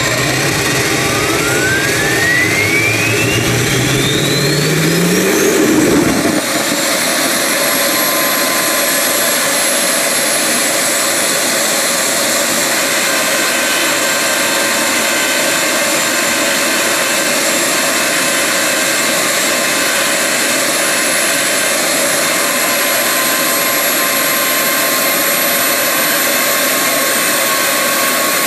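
Homemade turbocharger-based jet engine spooling up: a whine rises steeply in pitch over about six seconds while a lower hum rises with it and cuts off. It then runs steadily with a constant high-pitched whine over a loud rush.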